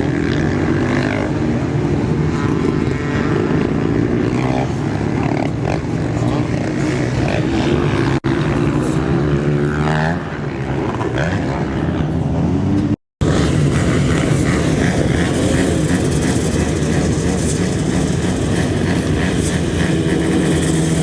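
Several motocross dirt bikes' engines running and revving together, their pitches rising and falling and overlapping. The sound drops out for a moment about two-thirds of the way through, then more bikes carry on idling and revving.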